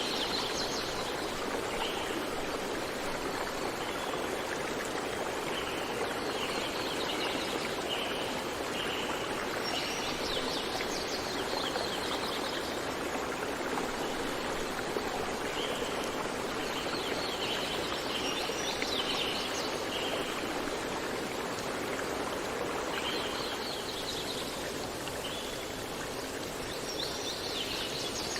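Steady rushing of a stream or small waterfall, with birds singing high, repeated phrases of short notes and trills that come back every few seconds.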